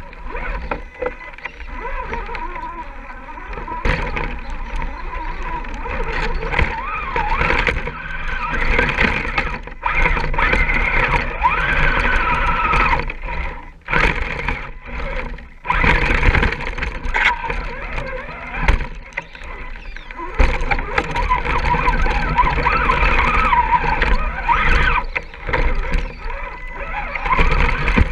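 Electric motor and gears of a radio-controlled scale crawler whining, the pitch rising and falling with the throttle. Scrapes and knocks run through it, with short drops in level around the middle.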